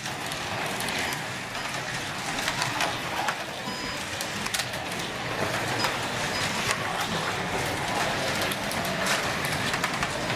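Several digital slot cars running on a plastic track: a steady whir of small electric motors and tyres, with scattered clicks.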